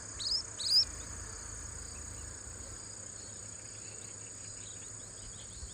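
A small young bird gives quick, high, rising chirps, about three in the first second and fainter ones later, begging as it is hand-fed. Under it runs a steady high insect drone.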